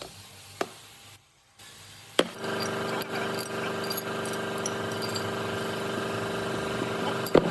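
A sharp knock, then a machine running at a steady, unchanging pitch for about five seconds before it cuts off.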